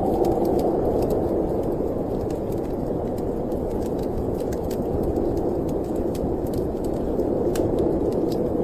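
Storm wind blowing in a steady, low rush, with the scattered small pops and crackles of a wood fire burning in a fireplace.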